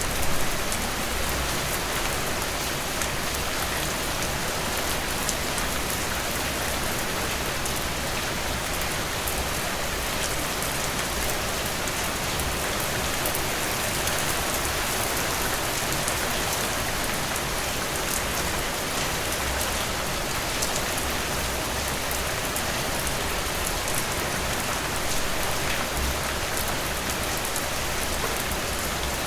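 Heavy rain in a steady downpour, a dense even hiss with many small drop ticks mixed in.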